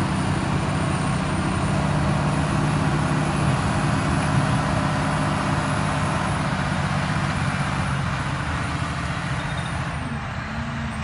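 A motor vehicle running steadily, a low engine hum under a wash of road and wind noise, easing off slightly near the end.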